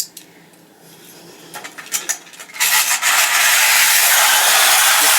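A few light clicks of tinplate toy parts being handled, then about two and a half seconds in the Technofix tin toy train's mechanism starts running: a loud, steady, rasping whirr and rattle on the metal track.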